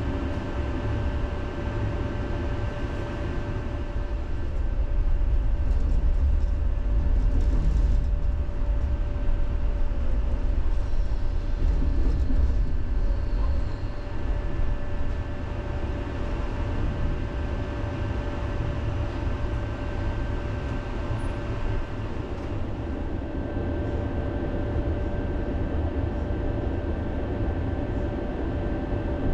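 Tram running along its rails, heard from inside the car: a steady low rumble with a faint steady whine. It grows louder for several seconds about a quarter of the way in, then settles back.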